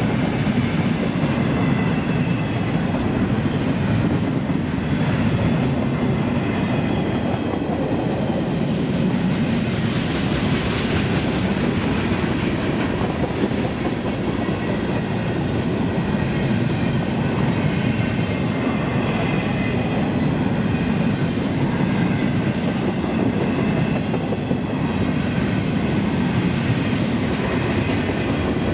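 Freight train passing: a steady rumble of steel wheels rolling on rail under a string of double-stack intermodal well cars.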